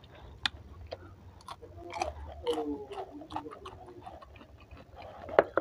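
Close-mic chewing of raw winged bean (kecipir) with sambal rujak: a string of small crisp crunches and wet mouth clicks. A short falling tone sounds about halfway through.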